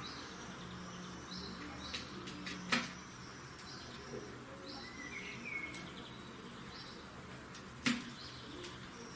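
European greenfinch giving scattered short chirping calls, with two sharp clicks, one almost three seconds in and a louder one near eight seconds.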